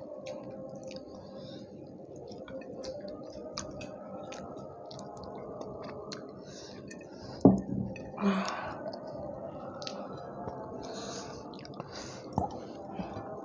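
Close-up chewing and wet mouth sounds of people eating rice and fish curry with their fingers, with many small clicks over a steady background hum. About seven seconds in comes a sharp thump, the loudest sound, followed by a short breathy rush.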